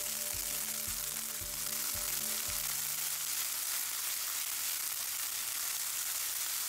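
Shirataki noodles and enoki mushrooms sizzling as they fry together in a pan. Background music with a light beat plays for about the first three seconds, then stops.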